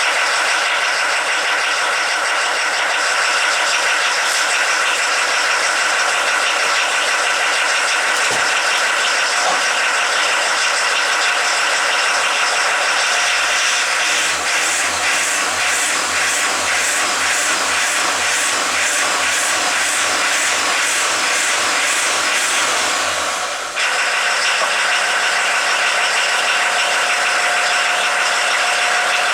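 Diesel engine exhaust running steadily. About halfway through, a regular low pulsing joins it for about ten seconds and then cuts off suddenly, while the steady running goes on.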